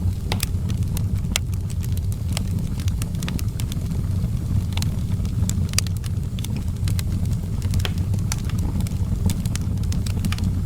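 Wood fire burning in an outdoor fireplace, with irregular sharp crackles and pops over a steady low rumble.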